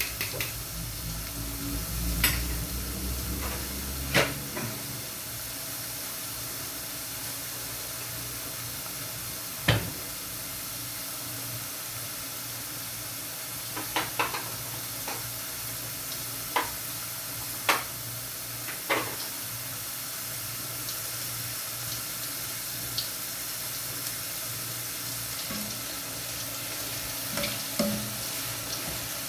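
Food frying in hot oil, a steady sizzle, with scattered sharp knocks.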